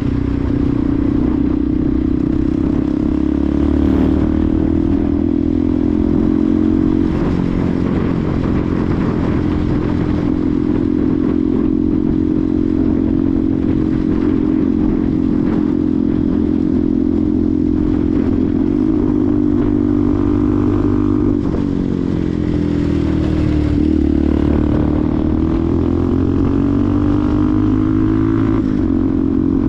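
Benelli TNT 125's single-cylinder four-stroke engine running under way at steady revs. About two-thirds through, the revs drop for a couple of seconds, then climb back up.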